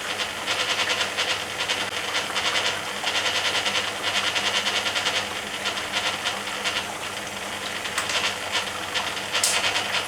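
Rinse water splashing and hissing inside the stainless steel drum of a 1980 Hoover Keymatic A3112 washing machine during its third rinse, with the drive motor at rest between drum turns.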